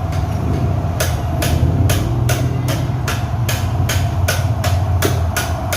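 Light, even hammer taps, about three a second, starting about a second in: a new crankshaft oil seal being tapped gently into the crankcase of a Honda Beat FI scooter.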